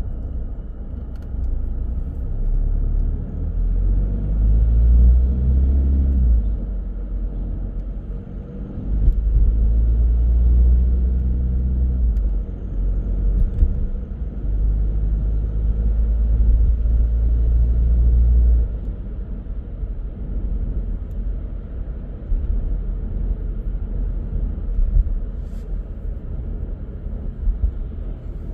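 A car driving, heard as low engine and road rumble. The engine note rises a few seconds in, dips briefly, then runs louder for about ten seconds before dropping off about two-thirds of the way through.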